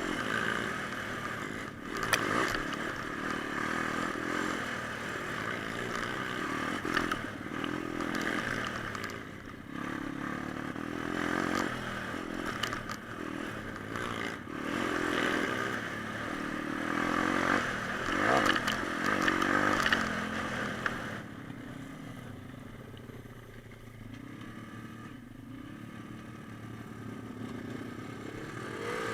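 Small single-cylinder pit bike engine revving up and down as the bike is ridden, with clattering and scraping noise over it. About 21 seconds in it drops back to quieter, lower running.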